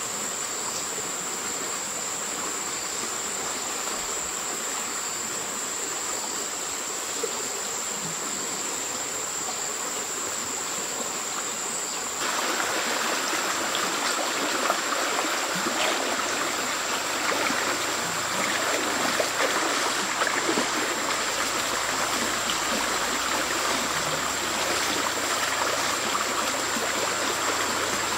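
Water running in a stream, with a steady high-pitched insect drone above it. About twelve seconds in the water sound becomes suddenly louder and fuller and stays that way.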